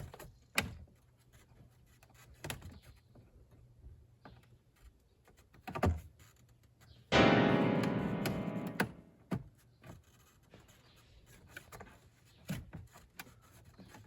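Scattered light knocks and clicks, and about seven seconds in a single struck musical tone that rings and fades over about two seconds.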